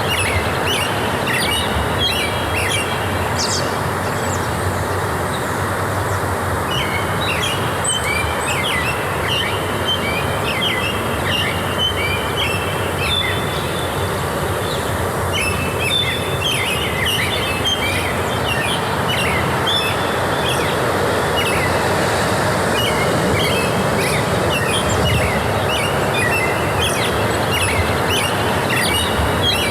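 Forest ambience: songbirds chirping in runs of quick repeated notes over a steady rushing noise.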